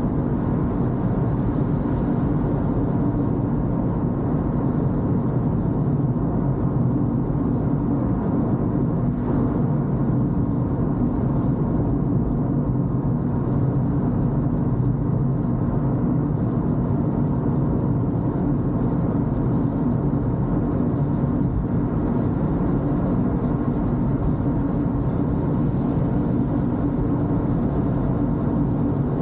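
Toyota Corolla driving on a wet road: a steady low rumble of engine and tyres that holds an even level throughout.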